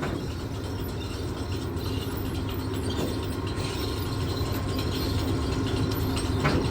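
Light, irregular metallic clicking from work on the bucket bolts of a grain elevator leg, over a steady low machinery hum.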